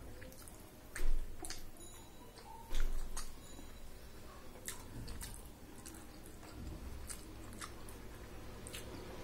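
Mouth sounds of a person eating rice and curry by hand: chewing with wet smacks and scattered small clicks, two louder smacks about one and three seconds in.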